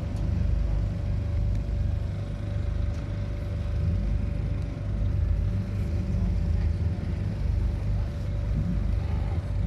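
Motor vehicle engines running with a steady low rumble, with a faint steady hum over it.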